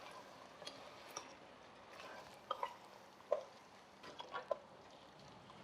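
A spoon stirring chicken pieces into masala in a pressure cooker: faint scraping with a few light clinks and knocks against the pot.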